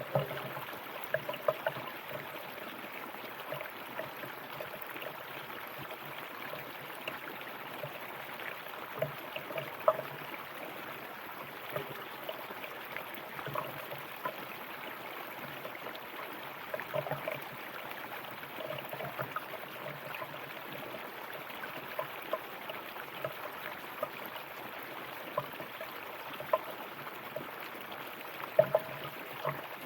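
River water flowing: a steady rush with frequent small gurgles and splashes, a few of them louder.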